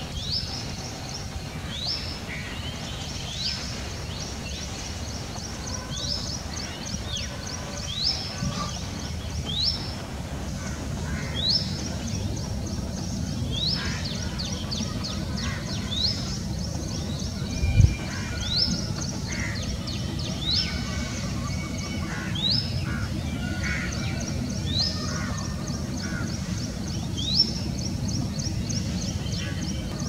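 Wild birds calling: one bird repeats a short, quickly rising note about every one and a half to two seconds, over scattered softer chirps and a low steady rumble. A single loud thump about eighteen seconds in.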